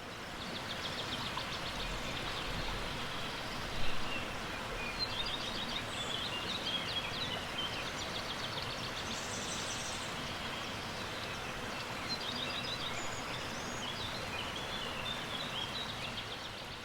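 Outdoor ambience: birds chirping and trilling repeatedly over a steady rushing background, fading in at the start and out at the end.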